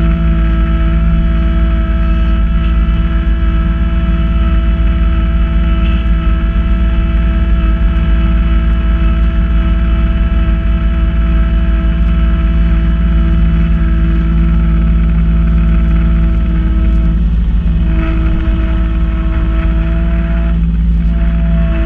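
Kubota B2650 compact tractor's three-cylinder diesel running with the front-mounted B2782 snow blower at work: a steady low drone with a steady whine over it. The whine drops out briefly twice near the end.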